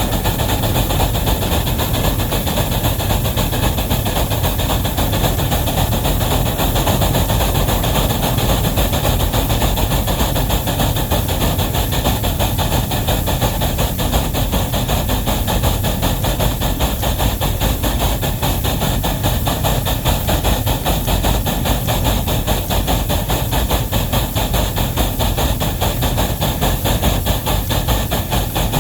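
Steam locomotive working under the load of a heavy train, a steady run of rapid, even beats with a hiss over them.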